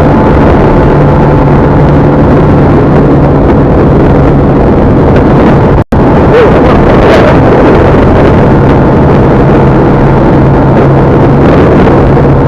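Loud, steady vehicle running noise with a low hum, so loud that it fills the recording near its limit. It drops out for an instant about six seconds in.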